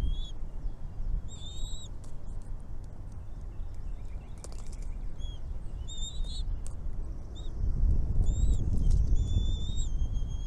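Small birds calling at a nest: short, high, thin notes repeated every second or so. Under them is a low rumbling noise that grows louder in the second half.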